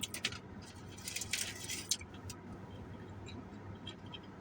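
Faint crackling and crinkling of crispy fried chicken wing crust being handled and pulled apart. There is a short burst right at the start and a longer crackly cluster about a second in, then only scattered light ticks.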